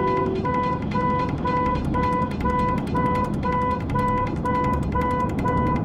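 Electronic warning beep repeating evenly, about two beeps a second, over a low rumble.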